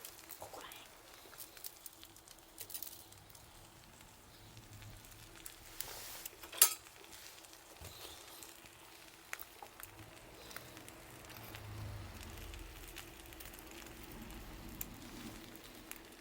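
Wood fire crackling, with scattered small pops and one sharp, loud pop about six and a half seconds in. A low rumble joins in the second half.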